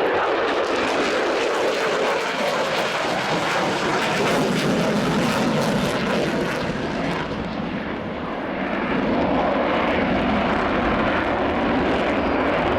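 A display jet's engine roar as the aircraft flies past. The sound eases briefly about two-thirds of the way through, then builds again as it comes round.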